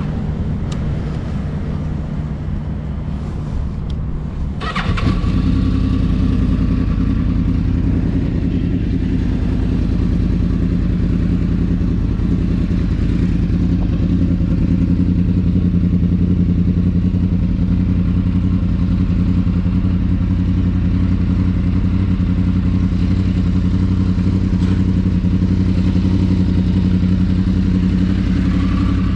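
Yamaha YZF-R1 motorcycle's inline-four engine running. About five seconds in there is a sharp click and the engine gets louder, then it holds a steady pitch.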